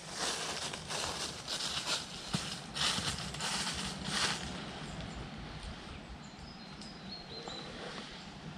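Footsteps walking on a forest path, about two steps a second, stopping a little past halfway, with faint short bird chirps in the background.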